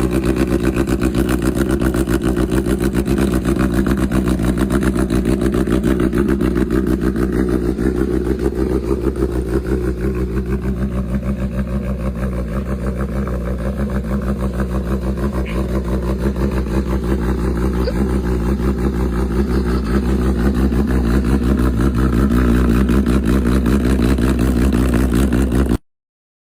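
Honda CBR1000RR sportbike's inline-four engine running loudly at a steady low speed, dipping briefly and picking back up midway. It cuts off suddenly near the end.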